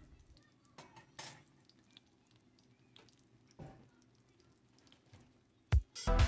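Faint sizzling of egg and butter frying in a heavy iron skillet, with a few soft crackles. Music with a beat comes in loudly near the end.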